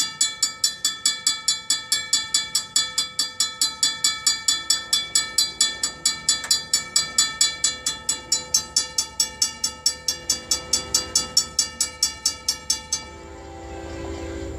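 Railroad grade-crossing bell ringing in a fast, even series of strikes, about four to five a second, that stops about a second before the end. A low rumble of the approaching train comes up as the bell stops.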